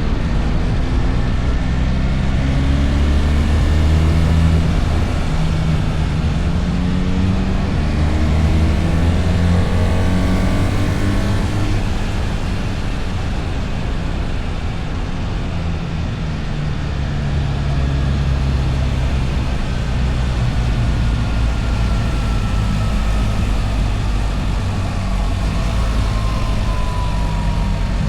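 The BMW R1300 GS's boxer-twin engine running under way. Its pitch climbs in steps through the gears in the first half, then runs steadier, over a steady rush of wind and road noise.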